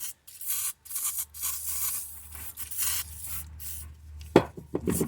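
Irregular scrubbing and rubbing strokes, hissy and scratchy, as a rubber window seal is cleaned with carpet stain remover, with a short knock a little over four seconds in.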